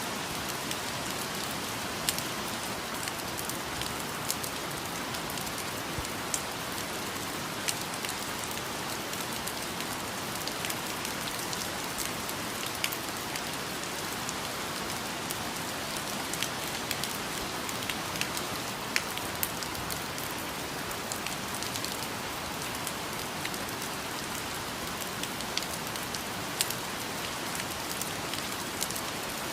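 Steady rain falling on foliage and surfaces, an even hiss with scattered louder individual drops landing close by.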